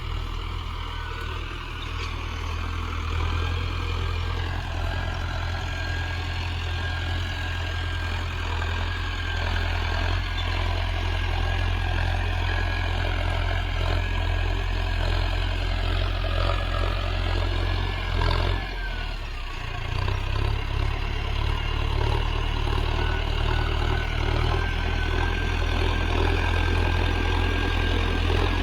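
Tractor diesel engine running steadily with a deep, even rumble. About two-thirds of the way in it briefly dips and changes note, then settles back to a steady run.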